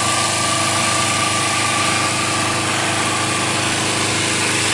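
Kawasaki Ninja 250R's small parallel-twin four-stroke engine running steadily at idle.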